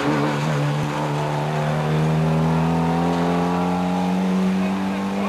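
Rally car engine under acceleration. Its pitch dips at the start, then climbs slowly and steadily as the car pulls through a gear.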